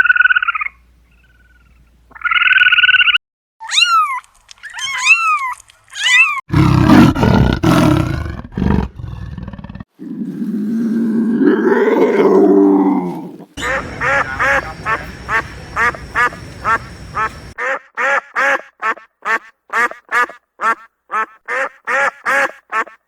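A succession of different animal calls: two short harsh calls, then a few arched chirps, then a loud, deep, rough call, then a low call that rises in pitch. The rest is long series of quickly repeated short calls, about four a second at first and slower near the end.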